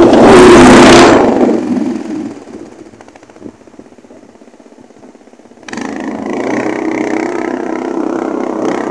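Homemade Mini Beep amphibious Jeep's engine driving close past, loudest in the first second and fading quickly as it moves away. About six seconds in, a steady, pitched hum cuts in suddenly.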